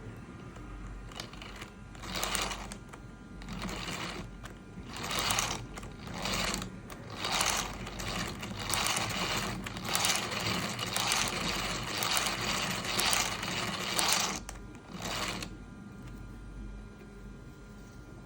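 Plastic gear mechanism of a 3D-printed PLA hand fan whirring and rattling in repeated hand-driven strokes, from about a second in until about fifteen seconds in.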